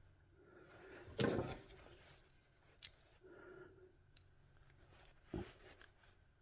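Small tools and parts being handled on a workbench: a sharp snip-like click about a second in that trails off briefly, a lighter click, scattered small clicks, and a dull thump a little after five seconds.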